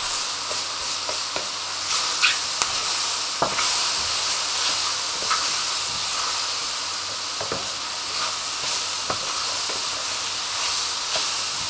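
Mushrooms, onion and garlic sizzling steadily in hot clarified butter in a frying pan, with scattered scrapes and taps of a utensil stirring them.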